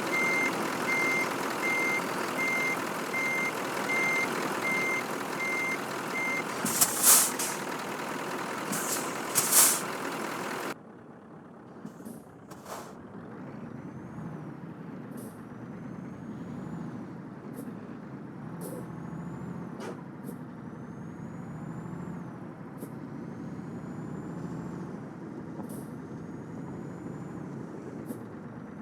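Scania truck reversing: its reversing alarm beeps steadily over the running engine, then two loud hisses of air brake release. The sound then drops suddenly to a quieter engine note that rises and falls, with short hisses now and then.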